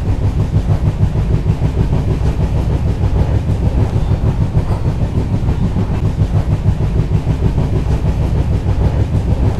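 Passenger train running at speed, heard from on board: a steady, loud rumble of the carriage and its wheels on the track.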